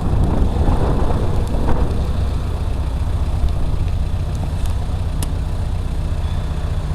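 Car engine idling steadily, with a rushing hiss that dies away over the first two seconds.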